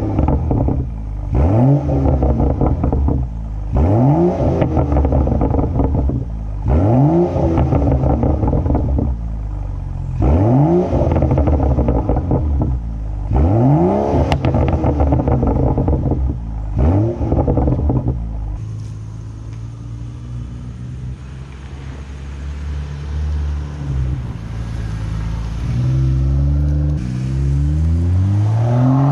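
BMW M235i's N55 turbocharged inline-six heard through a Fabspeed muffler bypass on the factory exhaust, revved sharply over and over, each rev rising quickly and falling away. About 18 seconds in it settles to a steady idle, then climbs in pitch again near the end.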